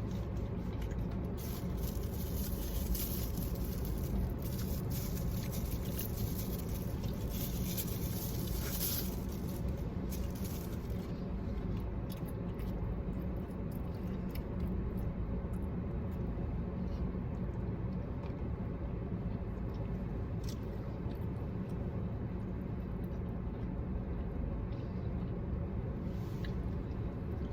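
Eating sounds: chewing, biting and small clicks of handling food, thickest in the first ten seconds, over a steady low hum.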